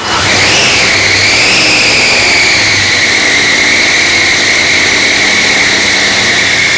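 A small engine running with a loud, high-pitched whine that rises briefly about half a second in and then holds steady.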